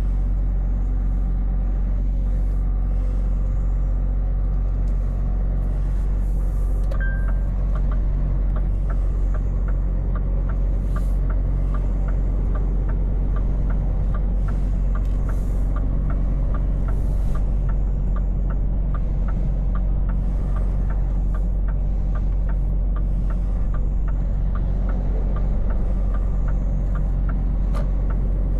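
Scania V8 truck engine running steadily, heard from inside the cab. A short beep about seven seconds in, then a regular ticking about twice a second that runs until near the end.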